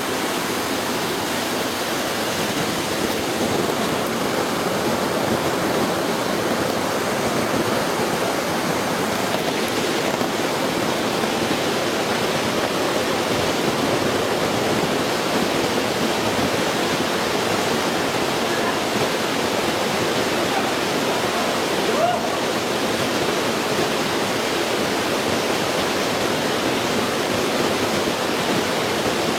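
Steady rushing noise of running water, unbroken throughout.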